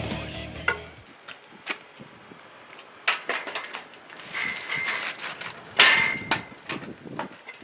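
Scattered metal clanks and knocks with a short, high, steady squeal twice near the middle, from work pulling a Cadillac 472 V8 out with a cheap engine lift.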